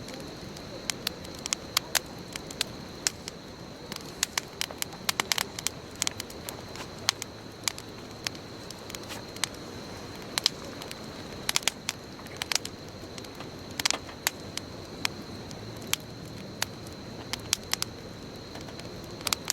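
Wood bonfire burning, with sharp irregular crackles and pops, several a second, over the steady hiss of the flames. A faint steady high-pitched tone sits underneath.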